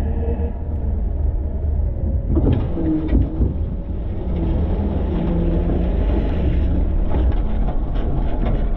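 Front-load garbage truck's engine running with a steady low rumble, heard from inside the hopper, with rattles and knocks of the body and a clatter about two and a half seconds in.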